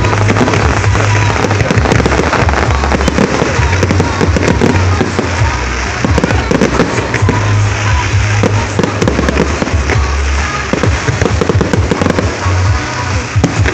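Fireworks display: shells bursting in a rapid, continuous run of bangs and crackles over loud music with a strong bass.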